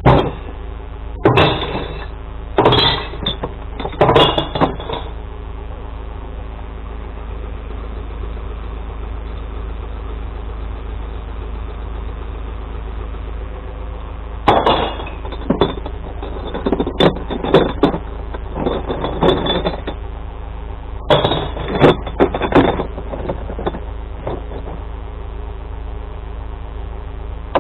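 Glass bottles and jars clattering and smashing as they are tipped into a glass collection truck: three quick clatters near the start, then a longer run of clatters in the second half. Underneath, the truck's engine idles steadily.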